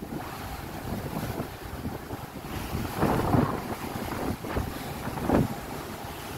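Strong wind buffeting the microphone over the rush of sea waves, with louder gusts about three seconds in and again a little after five seconds.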